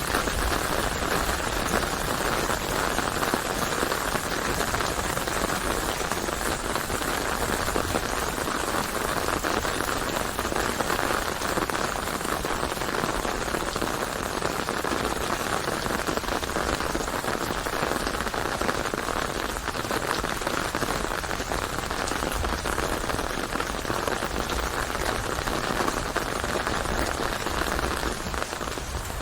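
Steady rain falling and pattering on a surface, a dense, even hiss of drops.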